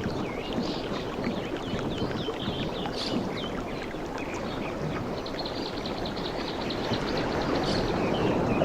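Steady wash of sea waves on a beach, with birds calling over it: a string of short, curving chirps, then a fast, even trill of short notes from about five seconds in.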